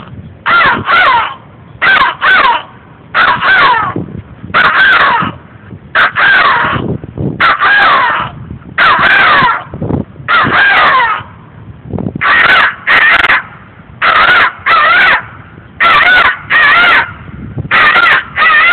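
A man imitating a bird with a long series of loud, crow-like caws, about one a second, some in quick pairs, each with a wavering pitch.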